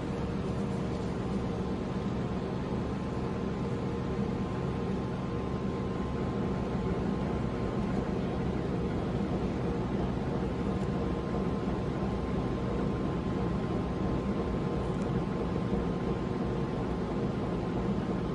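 A steady machine hum over an even hiss, with a faint constant higher tone, unchanging throughout.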